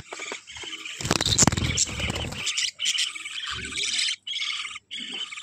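Budgerigars chirping and chattering almost without a break, high-pitched and busy. A louder noisy burst, reaching much lower, cuts in from about one second to two and a half seconds in.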